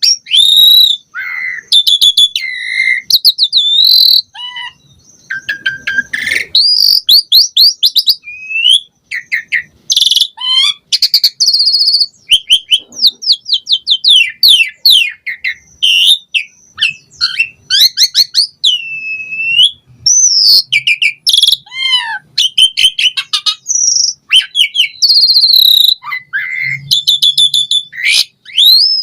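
Asian pied starling (jalak suren) in full song: a long, varied run of clear whistles, fast series of down-slurred notes and rapid trills, with only brief pauses.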